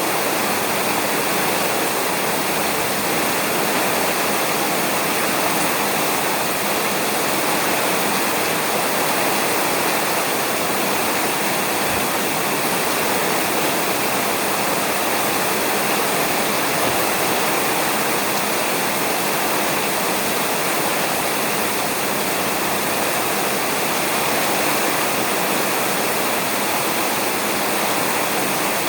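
Steady rain falling on a roof, an even hiss with no thunder.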